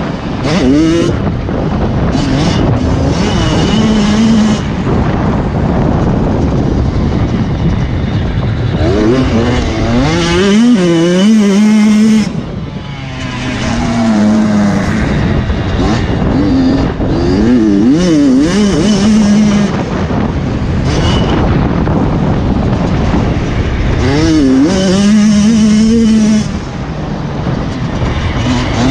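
Motocross motorcycle engines running hard, the engine note rising and falling over and over as the throttle is opened and closed, with brief drops in level twice.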